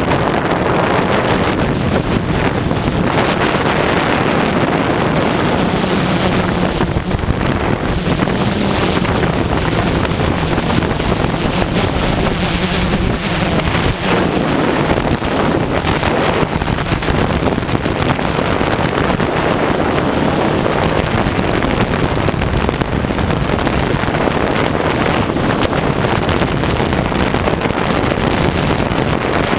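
Strong wind noise on the microphone over the steady drone of a DJI S1000 octocopter's eight motors and propellers in flight.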